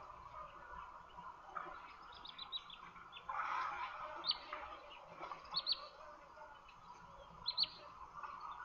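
Wild birds chirping: short, high, sharp calls, a quick run of them about two seconds in, then pairs of calls every second and a half or so over a steady background hiss. A brief burst of noise comes about three seconds in.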